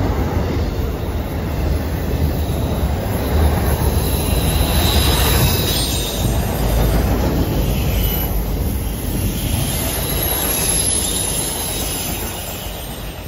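Freight train of autorack cars rolling past on a curve: a steady rumble of wheels on rail, with high-pitched wheel flange squeal that comes and goes from a few seconds in. The sound grows fainter near the end.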